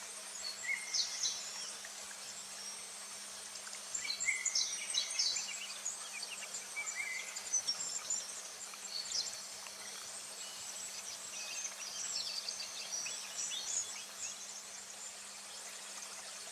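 Summer forest ambience: small birds chirping in several short bursts of quick, high notes over a steady background hiss.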